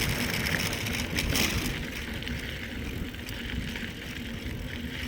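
Mountain bike rolling along a dirt rail trail: a steady rumble of tyres on the ground, with a couple of brief rattles about a second and a half in.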